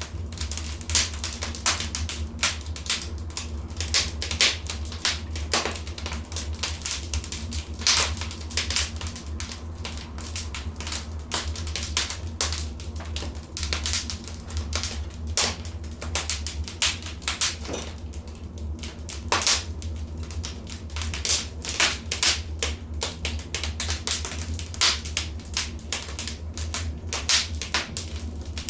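Wood fire crackling, with dense, irregular sharp pops and snaps over a steady low rumble.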